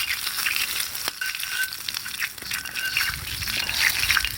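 Meat sizzling over a campfire, a steady hiss with scattered crackles and clicks.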